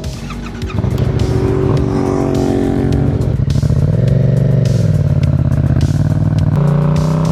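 Yamaha MT-07's parallel-twin engine through a Black Widow aftermarket exhaust, running just after a cold start: steady at first, with a short blip of the throttle about four seconds in that rises and falls, then settling at slightly higher revs that creep up near the end.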